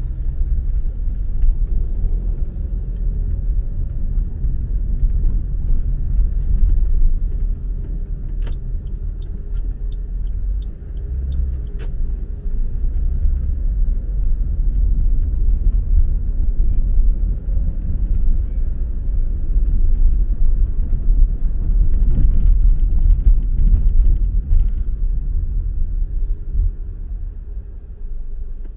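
Car on the move: a steady low road and engine rumble, with a run of light ticks about two a second near the middle.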